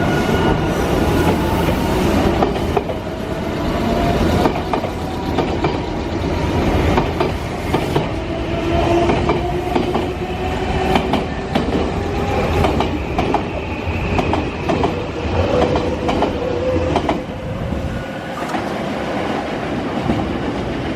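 Nankai electric commuter train running on the station tracks, its wheels clicking over rail joints under a steady rumble. A motor whine rises slowly in pitch as the train gathers speed.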